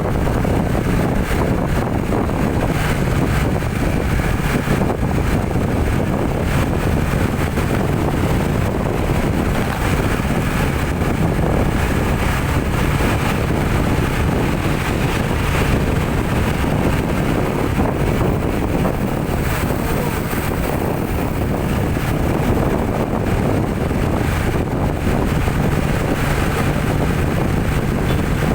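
Steady engine and road noise from a vehicle on the move, with a low, even drone that does not change.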